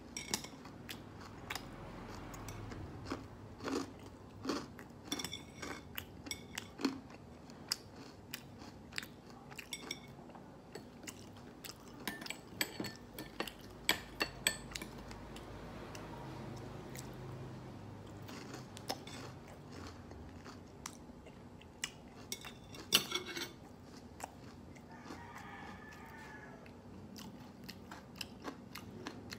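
Close-up chewing and crunching of fried pork, with irregular sharp clicks of metal chopsticks against a ceramic plate. One click about three-quarters of the way through is louder than the rest.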